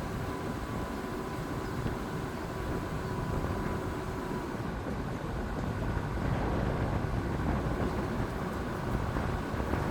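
Jeep Grand Cherokee WJ's 2.7-litre common-rail diesel engine running steadily as the vehicle drives, a continuous low rumble.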